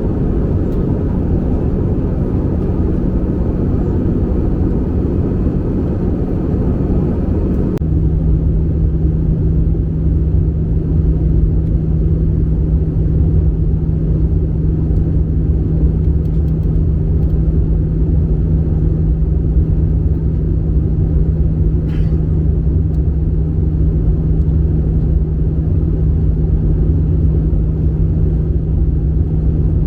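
Airbus A320 cabin noise in flight: a steady rumble of the engines and rushing air with a constant hum that steps down slightly in pitch about eight seconds in.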